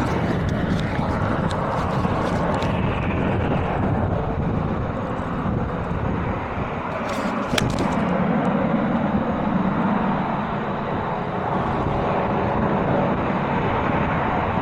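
Strong wind buffeting the microphone in a steady low rush, with a single sharp club-on-ball strike about halfway through.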